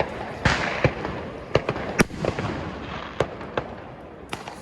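Fireworks going off: a rapid, irregular run of sharp bangs and cracks, about a dozen, with a crackling hiss between them that thins out in the second half.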